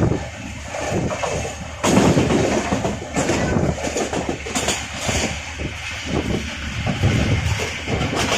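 Passenger train running, heard from on board: a steady rumble and rushing noise broken by irregular heavy knocks and bangs, the loudest about two seconds in.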